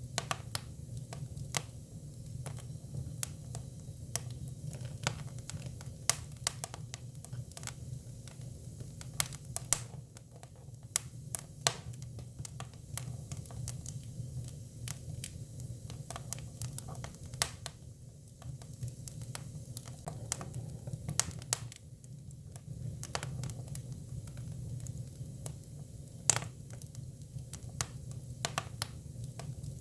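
Hinoki cypress firewood burning: irregular sharp crackles and pops over a low, steady rumble of the fire, with a few louder pops scattered through.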